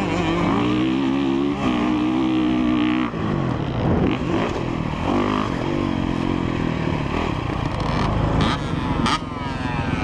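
Dirt bike engines running on a motocross track. The note holds fairly steady at first, then rises and falls in quick revs near the end.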